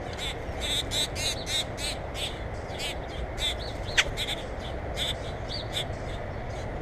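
Birds calling in a rapid run of short, high calls, several a second, over a steady low background rumble, with one sharp click about four seconds in.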